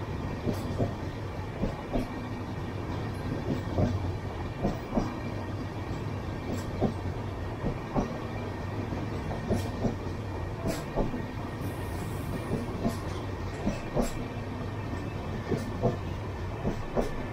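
Passenger train coaches rolling past at speed: a steady rumble of wheels on rail, with irregular sharp clacks as the wheels cross rail joints.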